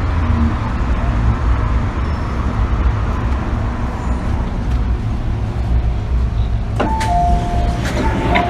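Interior running noise of an MTR M-Train in motion, a steady low rumble. Near the end a descending two-note chime sounds twice, the chime that comes before an onboard announcement.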